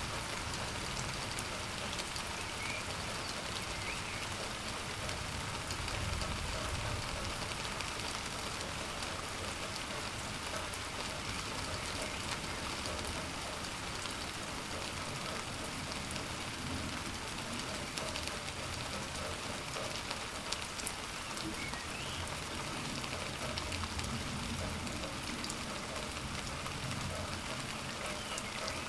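Steady rain falling during a thunderstorm, a constant even hiss of drops on surfaces. The low tail of a thunder rumble dies away at the start, and faint low rumbles come and go later.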